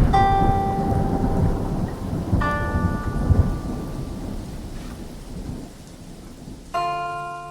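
Rain and rolling thunder rumble, slowly fading, with three ringing guitar chords struck at the start, about two and a half seconds in, and near the end: the opening of a sad song's intro.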